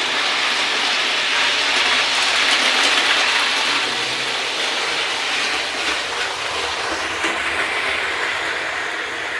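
OO gauge model Class 47 diesel locomotive running along the track: a steady rattle of wheels on rail and motor, growing louder about two to three seconds in as it passes close, then slowly fading.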